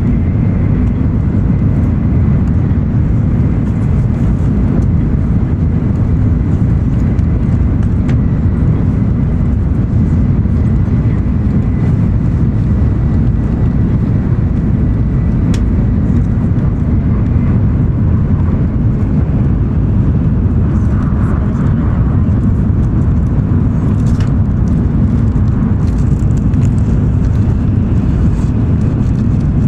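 Steady low rumble of a JR West N700 series Shinkansen running, heard inside the passenger cabin, with a faint high whine that fades out about halfway through.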